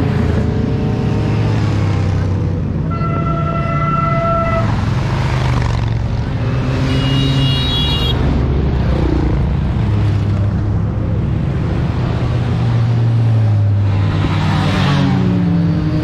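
Several motorcycle engines running together, with a horn sounding for about a second and a half about three seconds in, then a shorter, higher-pitched horn around seven seconds in.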